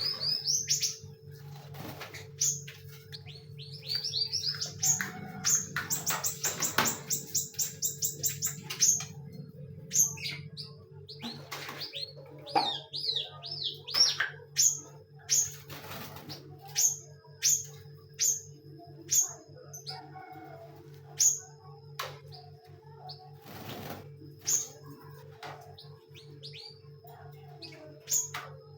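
Caged songbirds chirping: short rising high chirps, a fast run of high notes a few seconds in, then single chirps about once a second, with scattered brief knocks, over a steady low hum.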